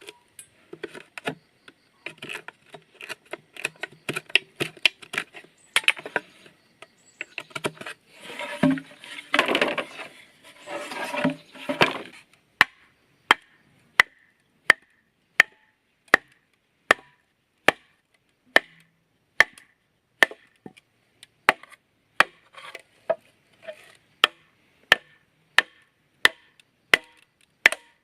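Bamboo being chopped with a blade in steady, evenly spaced strokes, about one and a half a second. A few seconds of louder rasping noise come in the middle before the chopping resumes.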